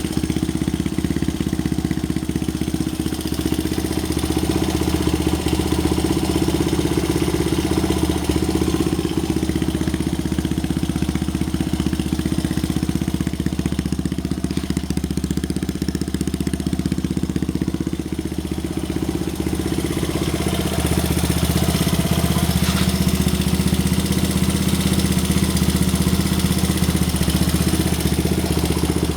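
Honda Ape100's single-cylinder four-stroke engine idling steadily through an aftermarket OVER muffler, a little louder about two-thirds of the way in.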